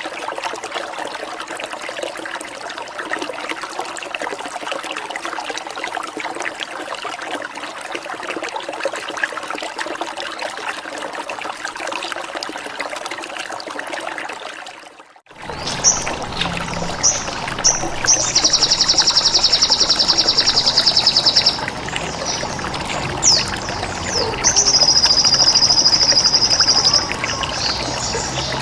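Water trickling steadily for about fifteen seconds. After a brief drop-out, a bird-training track begins: short high chirps and two long, high, rapidly pulsing buzzes like a bren cicada.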